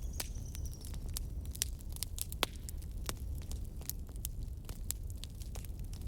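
Campfire wood crackling, with many irregular sharp pops and snaps over a steady low rumble of the fire. A faint high whistle falls away within the first second.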